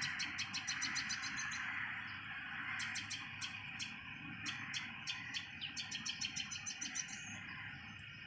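Common tailorbird chirping: sharp, high chirps repeated about five or six times a second, in three runs with short breaks between them, over a steady background hiss.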